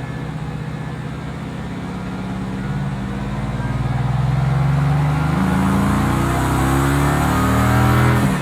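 Mercedes-AMG GT S 4.0-litre twin-turbo V8 running at a steady cruise, then accelerating from about halfway in, its note climbing and growing louder toward the end.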